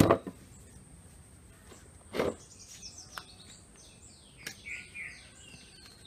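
Birds chirping in a quick run of short, falling chirps from about two and a half to five seconds in, over a faint steady high-pitched tone. A brief loud noise comes at the very start and a shorter one about two seconds in.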